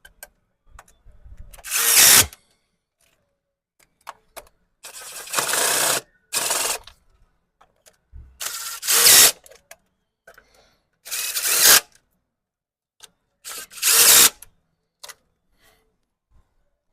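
A power drill-driver runs in five short bursts a few seconds apart, tightening the rocker cover bolts one by one. Small clicks of the tool and socket being moved between bolts come in between.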